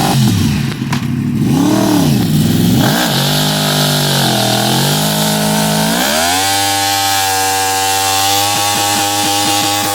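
Yamaha R1's inline-four engine revved in two quick blips, then dipping and climbing, and from about six seconds in held at high revs with a steady high pitch during a burnout. Brief repeated stutters break the note near the end.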